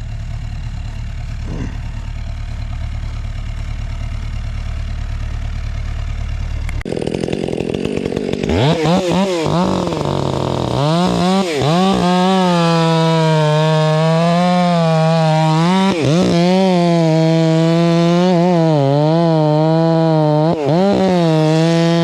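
A low engine idle, then about seven seconds in a chainsaw is revved up and runs at full throttle cutting into the trunk of a large white oak. Its pitch dips briefly several times as the chain loads in the wood.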